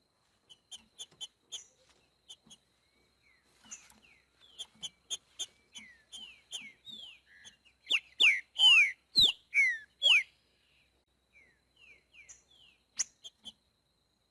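Green-winged saltator (trinca-ferro) singing in a boiadeiro-type song. Scattered short chips and down-slurred notes lead into a loud phrase of slurred whistles about eight seconds in, and one sharp note comes near the end.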